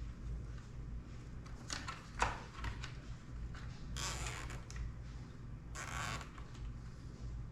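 Nylon zip ties being pulled tight: three short ratcheting zips, about two seconds apart, with a sharp click early in the first. A steady low hum runs underneath.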